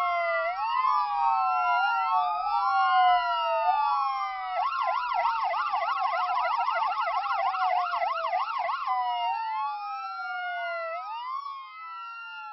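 Ambulance siren wailing in long rising and falling sweeps, switching to a fast yelp for a few seconds in the middle. It fades toward the end.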